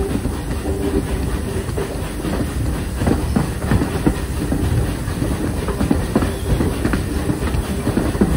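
Train running along the track: a steady rumble with irregular clicks and knocks of wheels over rail joints, and a faint intermittent squeal.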